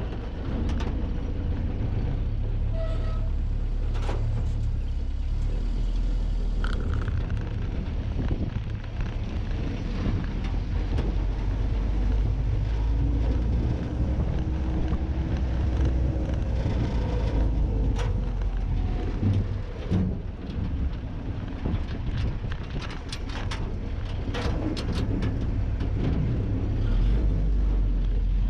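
Willys Jeep's four-cylinder engine running under load as the Jeep is driven, a steady low drone with road noise and a few sharp knocks and rattles.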